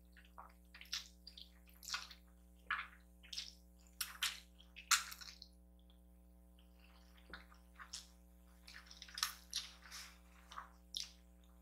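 Wet mouth sounds of someone eating kimchi noodles: a faint string of short, squishy chewing and slurping noises at irregular intervals, with a pause in the middle.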